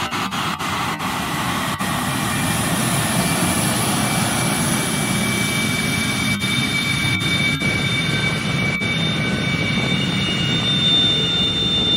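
Military jet engine running steadily, a dense roar with a high whine that strengthens and adds a second, higher tone in the last few seconds.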